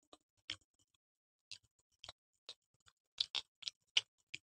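Close-up eating sounds: sparse, irregular crisp clicks and smacks of chewing and lips, with a tight cluster of louder ones about three seconds in.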